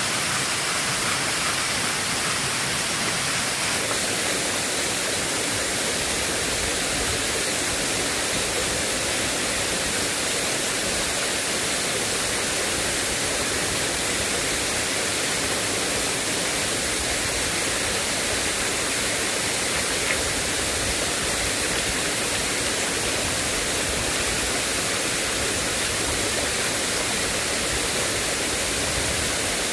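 Steady, even noise of rushing water, from heavy rain or fast-flowing floodwater, with no break or change.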